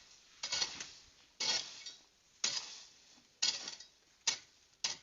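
A metal hand tool, such as a hoe or machete, striking soil and plants over and over at about one stroke a second. Each stroke is a sharp hit with a short scraping clink.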